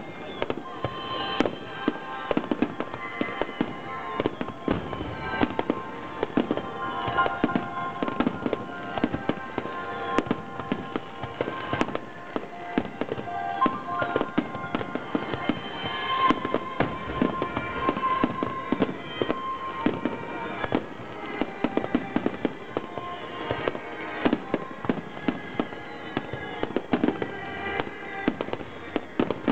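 A fireworks display with shells bursting in rapid, irregular succession, many bangs a second, over music played with the show.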